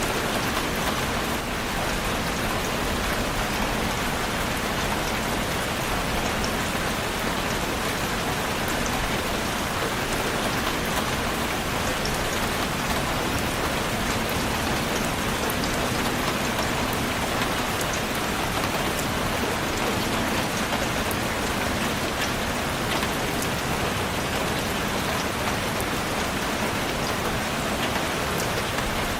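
Steady rain falling on a surface, a constant hiss with scattered drop ticks.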